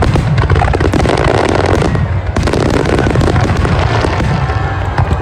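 A fireworks display going off in rapid succession: many sharp bangs and crackles packed close together over a continuous deep low rumble.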